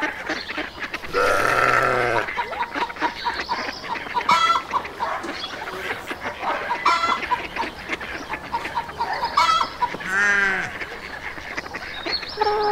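Poultry calling: separate harsh honking and clucking calls every couple of seconds, the longest about a second in and an arched, falling call near the end.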